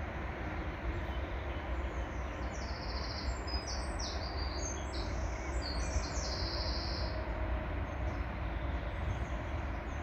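A songbird singing a series of high, short trilled notes from about two and a half to seven seconds in, over a steady rushing noise with a low rumble.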